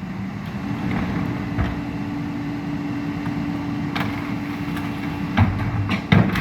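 Vehicle engine running with a steady low hum that sets in about a second in, with a few sharp knocks near the end.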